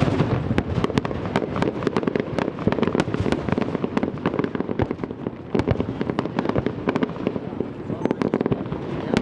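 Aerial fireworks display: a rapid, dense string of sharp bangs and crackles, several a second, over a steady low rumble, with people's voices underneath.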